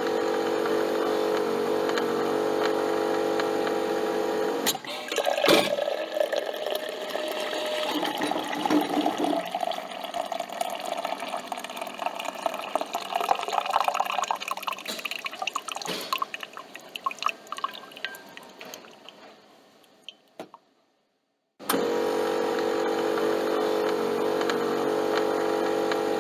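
Coffee machine brewing: a steady motor or pump hum, then coffee pouring and dripping into the cup, fading out to silence. The hum starts again about three-quarters of the way through.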